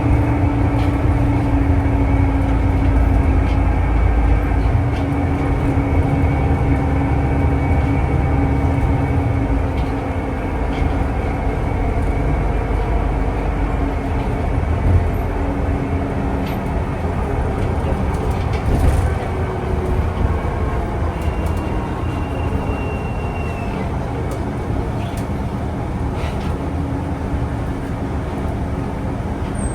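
A public transport vehicle running, heard from on board: a steady low rumble with a motor hum, which eases a little after about ten seconds.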